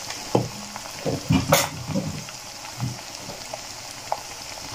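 Onions and spices sizzling in hot oil in a karahi, with chilli powder just added. A steel ladle stirs and knocks against the pan several times in the first three seconds, most sharply about a second and a half in.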